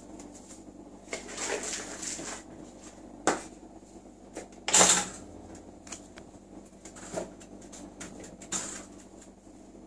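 Scattered light knocks and clatters with a stretch of rustling, as things are handled and moved about around kitchen cupboards; the loudest knock comes about halfway through.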